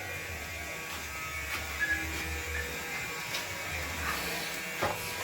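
A steady low buzz with a few faint, short whistled notes from a jalak (starling) between quieter stretches.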